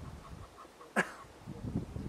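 A bird calling: one short, sharp call that drops quickly in pitch about a second in, over a faint, rapid run of repeated high notes.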